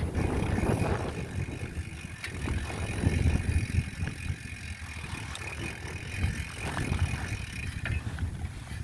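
Wind buffeting the microphone during a bicycle ride: an uneven low rumble that rises and falls, with a faint steady high tone that stops near the end and a few small clicks.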